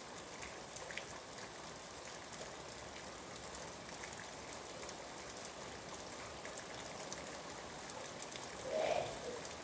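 Steady rain falling, with scattered drops ticking. Near the end a brief, louder sound stands out for about half a second.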